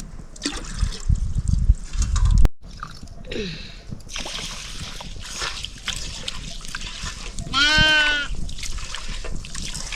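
A goat bleats once, loud and wavering, about eight seconds in, over a steady trickle and splash of running water.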